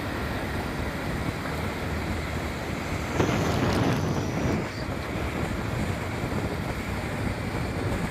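Wind rushing over the microphone on a moving motorcycle, with the motorcycle's engine running low underneath. The wind grows louder for about a second a little after three seconds in.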